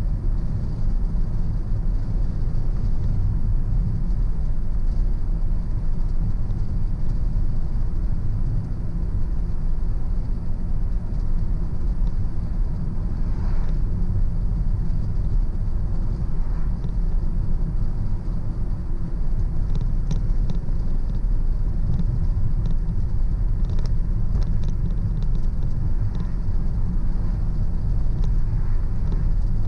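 Car driving along, a steady low rumble of engine and road noise with no change in pace.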